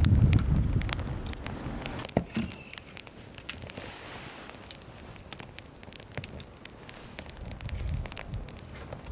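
Wood fire crackling, with sharp pops scattered throughout. A low wind rumble on the microphone fades out over the first two seconds.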